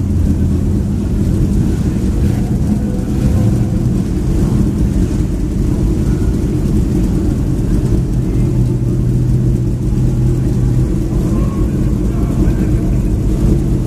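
Racing car engine running loudly and steadily at a low, even pitch, with voices in the background.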